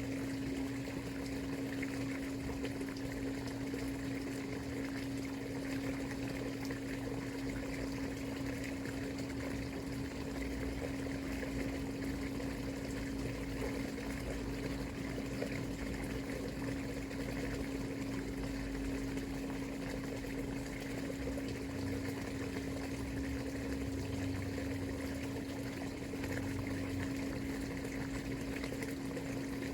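Water flowing and trickling steadily, with a constant low hum under it.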